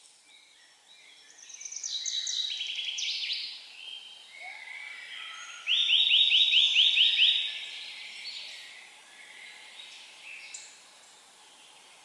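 Songbirds singing in a forest: one song about a second in that steps down in pitch, then a louder song of quick repeated notes about six seconds in, over a faint steady outdoor hiss.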